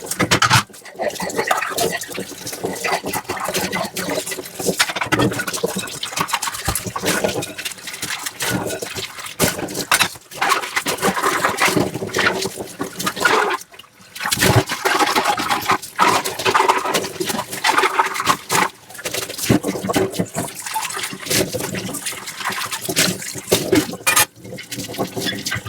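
Dishes being washed by hand with a soft sponge: sponge scrubbing and rubbing on dishes, with water sloshing and trickling and short knocks of dishware, pausing briefly a couple of times.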